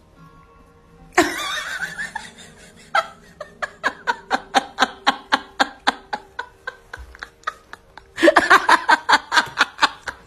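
A person laughing in a long run of rapid, evenly repeated bursts, louder and more intense near the end, over faint background music.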